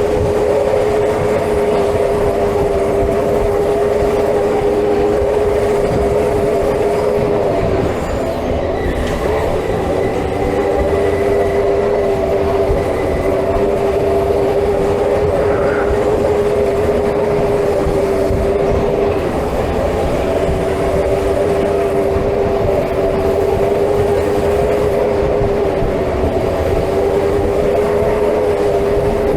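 Theme park ride running: a loud, steady mechanical whine over rattling, which dips briefly twice and then resumes.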